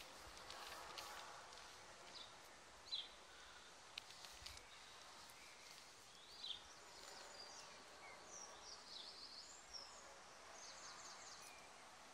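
Faint outdoor background with small birds chirping high and quick, a run of chirps in the second half, and a few soft clicks.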